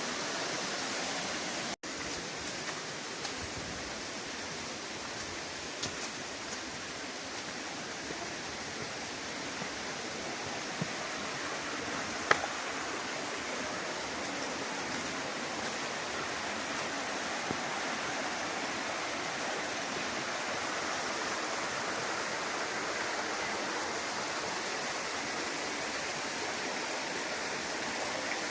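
Steady rush of falling water from a mountain waterfall and stream. A single sharp click comes about twelve seconds in, and the sound cuts out for an instant about two seconds in.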